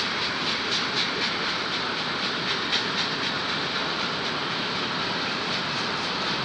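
Union Pacific manifest freight train rolling past, a steady rumble of moving cars with a rhythmic clicking of wheels over rail joints, clearest in the first half.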